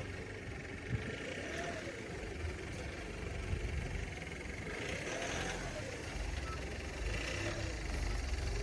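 Tow vehicle's engine running under load while manoeuvring a caravan trailer, with a steady low rumble and a tone that rises and falls several times as the revs go up and down.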